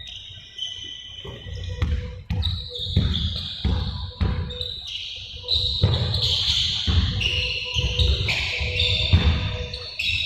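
Several balls bouncing irregularly on a hard floor in a large echoing hall, with short high shoe squeaks.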